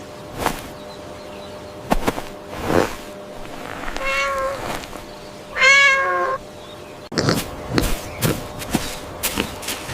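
Domestic cat meowing twice in the middle of the stretch, the second meow louder and falling at its end, with scattered clicks and knocks before and after.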